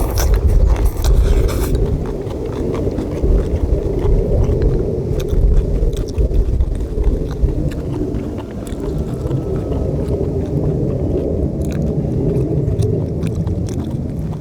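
Chewing and biting of chewy stir-fried small octopus with kimchi, with scattered small clicks. Underneath is a steady low wind rumble on the microphone.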